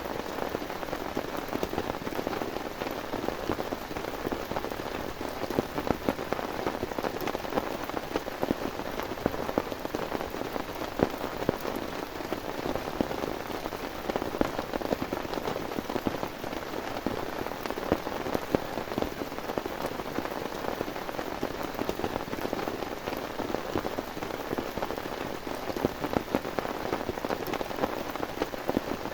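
Heavy rain falling steadily, its drops striking a surface as dense, irregular taps.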